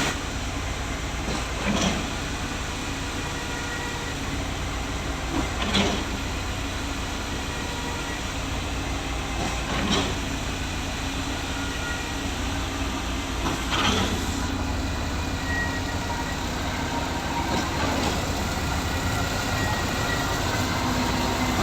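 Concrete pump running with a steady mechanical drone, broken by a clunk about every four seconds as the pump changes stroke.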